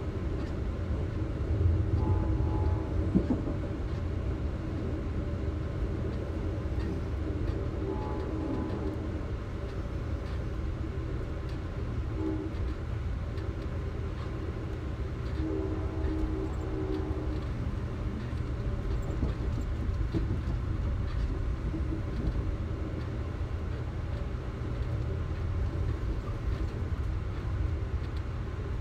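A train running with a steady low rumble. A few brief tones rise above it now and then.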